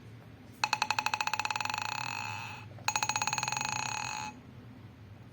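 Test tubes in a stand rattling and ringing: two bursts of very fast, bell-like clatter with a steady ringing pitch, the first starting about half a second in and fading over two seconds, the second starting about three seconds in and cutting off about a second and a half later.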